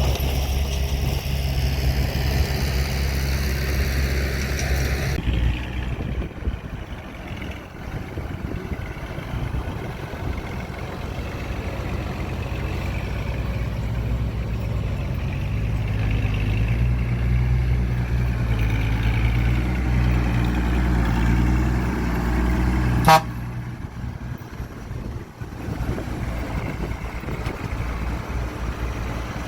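Heavy diesel machinery engines running steadily with a deep hum, working harder from about two-thirds of the way in, with one sharp click near the end.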